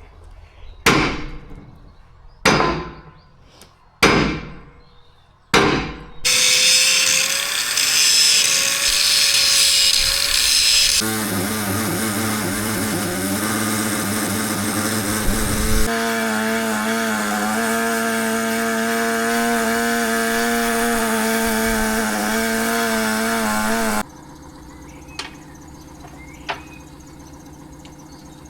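Four ringing hammer blows on a narrowboat's steel tiller stock, followed by a power grinder running hard on the metal. The grinder sound shifts abruptly a few times and stops a few seconds before the end.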